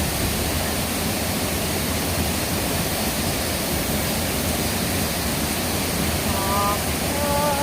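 Chichibu Kegon waterfall: a steady rush of falling water. About six seconds in, a warbling tune starts over it.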